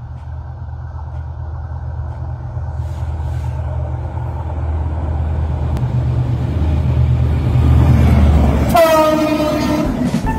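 Diesel locomotive of an express train approaching, its low engine rumble growing steadily louder. It sounds one loud horn blast about nine seconds in as it passes, after which the rumble drops away and the coaches roll by.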